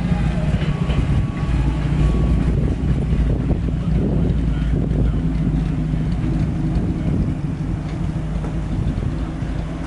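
Engine running steadily at idle, a low hum, with wind buffeting the microphone.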